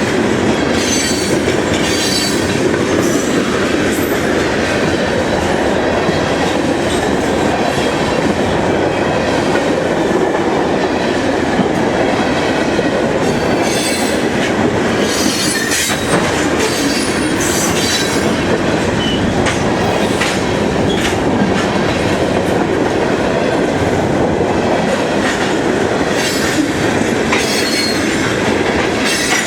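Freight train cars rolling past at close range, a steady rumble of steel wheels on rail with clicking over the joints and high-pitched wheel squeal that comes and goes.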